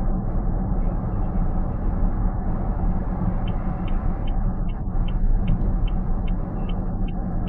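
Steady low road and engine rumble inside a moving car's cabin. About halfway through, the turn-signal indicator starts ticking, about three ticks a second.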